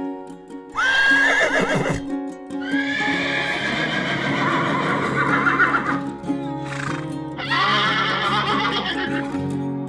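Three whinnying calls from an equine over background music. The first is short, the second lasts about three seconds, and the third comes near the end; each starts high and wavers down in pitch.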